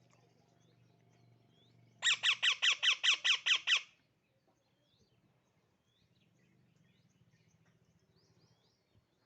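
Baby parrot giving a rapid run of about a dozen loud squawking calls over two seconds, starting about two seconds in, with faint chirps from other small birds before and after.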